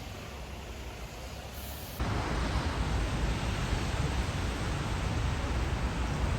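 Steady low rumble and hiss of background noise, jumping louder at a cut about two seconds in.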